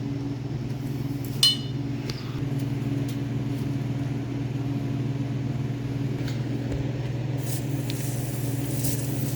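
A steady low mechanical hum at an even pitch, with a single sharp metallic clink about a second and a half in.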